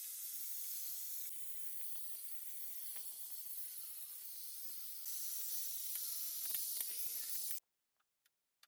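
A steady high hiss with scattered light clicks and a faint wavering hum underneath. It breaks off into dead silence near the end.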